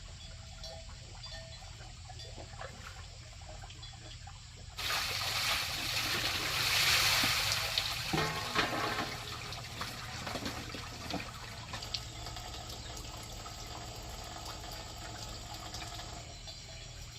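Water pouring and splashing: a faint trickle, then a sudden heavy gush about five seconds in that is loudest for a few seconds and eases back toward a trickle.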